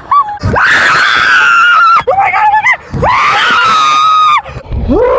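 Riders on a small roller coaster screaming: about four long, high-pitched screams in a row, each sliding in pitch.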